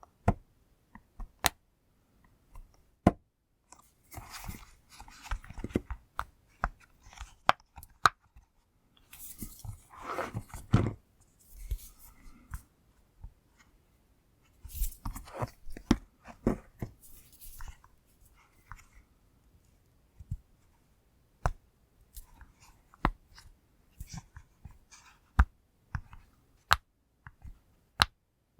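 Push-pop fidget toy bubbles being pressed, giving sharp single pops at uneven intervals, with three denser runs of rapid crackly pops.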